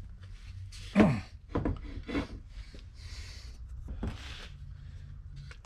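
Hands handling and rubbing metal transmission parts on a workbench: a few short scrapes and knocks over a steady low hum.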